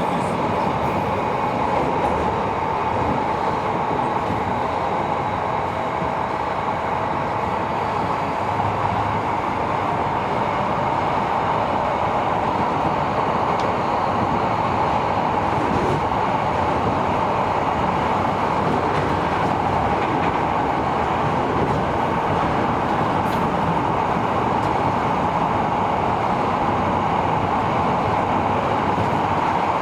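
Tobu 70000 series commuter train running steadily between stations, heard from inside the car: a continuous rumble and hiss of wheels on rail. A faint whine sits over it at the start.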